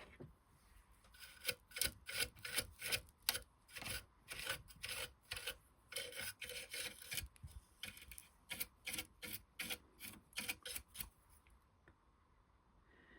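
Repeated rubbing or scraping strokes, about two to three a second, starting about a second in and stopping a little before the end.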